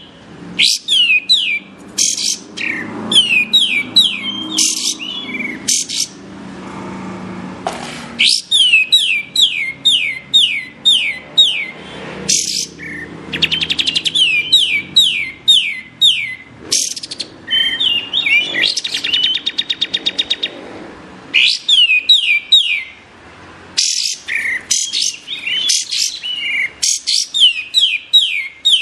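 Kapas tembak songbird singing: loud phrases of quick downward-sweeping whistled notes and fast trills, repeated in bursts with short pauses between them. It is a master song recording used to teach its phrases to oriental magpie-robins.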